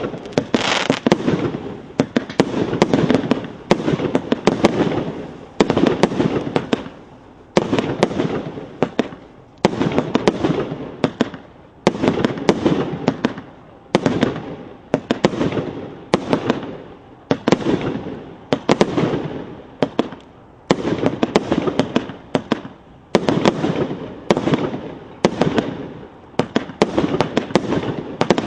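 Golden Beach GWM 6122 firework cake (110 shots, 30 mm calibre) firing shot after shot: about one burst every second or so, each a sharp bang followed by a rattle of smaller cracks that fades away.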